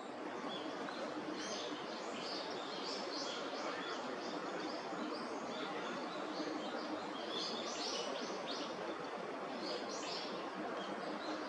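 Warbling white-eyes giving short, high chirping calls again and again while foraging, over a steady background hiss.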